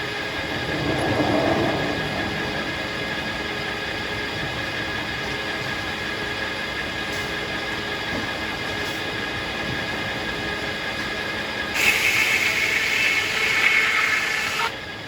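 Circular sawmill running steadily, its many even tones held throughout. About twelve seconds in the blade is cutting hackberry wood, a louder, higher sound for about three seconds that cuts off sharply.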